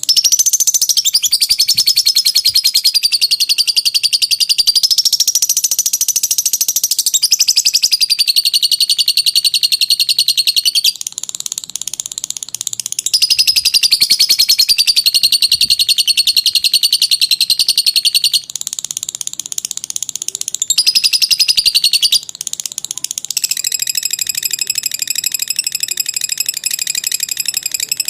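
Lovebird 'ngekek panjang' song: long runs of rapid, high-pitched chattering trills, the pitch wavering slightly. The runs are broken by a few short pauses.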